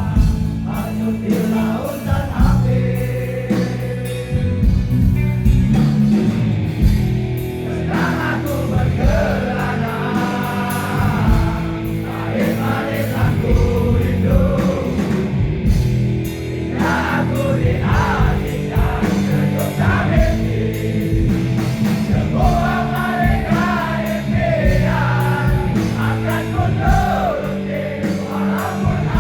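Rock band playing live, with a singer's voice carried over the full band.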